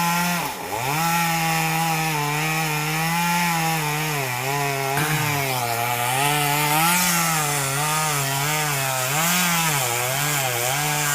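Two-stroke chainsaw running and cutting into a large tree trunk, its engine pitch wavering up and down as the load on the chain changes. The revs drop sharply and recover about half a second in.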